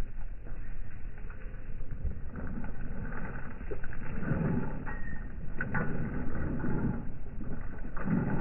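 Labrador retriever eating kibble from its bowl: irregular chewing and bowl noises with a few sharp clicks.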